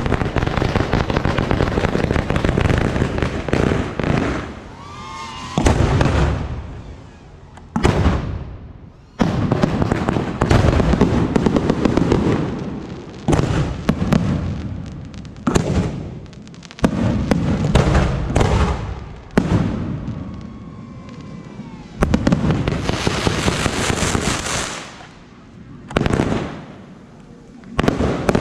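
Aerial fireworks display: rapid barrages of bangs and crackling, each lasting a few seconds, with short lulls between them.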